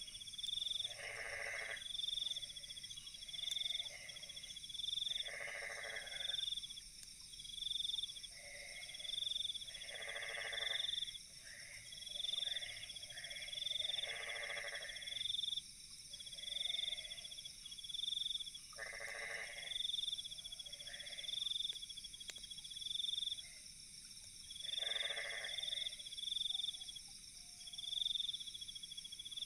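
Night countryside animal calls: a short call repeats every two to four seconds over steady, high, continuous chirping.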